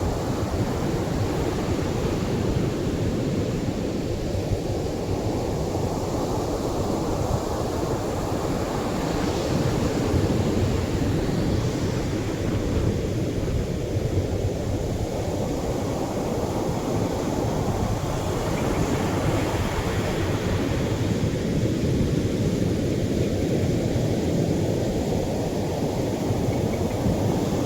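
Atlantic surf washing onto a beach as a steady low rumble, with a wave breaking into a brighter hiss about ten seconds in and again about twenty seconds in.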